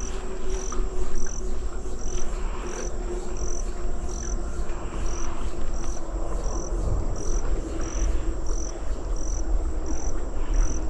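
An insect, likely a cricket, chirping in short, even, high-pitched pulses a bit more than once a second, over a steady low rumble.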